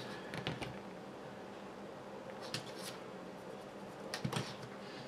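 A few faint clicks and taps of small screws, plastic parts and a screwdriver being handled while a servo is screwed into its mounts, with a small cluster about four seconds in, over a steady low hum.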